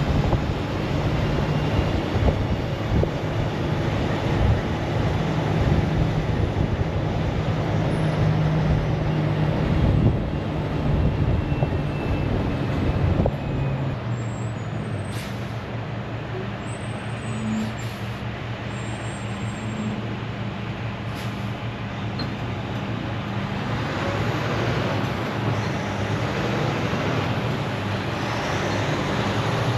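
Semi-truck under way on the road with a heavy lowboy load: steady engine and road noise, with the low engine rumble easing off about 13 seconds in.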